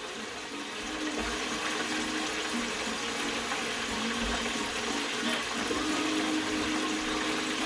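Chicken deep-frying in hot olive oil: a steady sizzling hiss that swells slightly about a second in and then holds.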